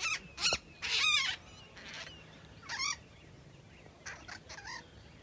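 A pair of large birds flying overhead, calling with loud, harsh squawks. About six calls come in uneven bursts; the longest and loudest is about a second in, and fainter calls follow near the end.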